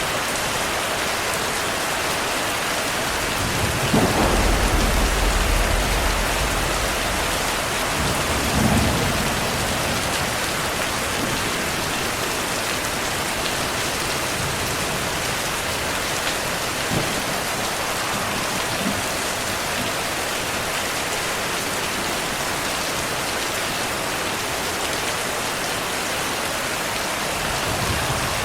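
Heavy, steady rain with thunder rumbling: a loud low roll of thunder starts about four seconds in and lasts a few seconds, a second follows around nine seconds, and fainter rumbles come later.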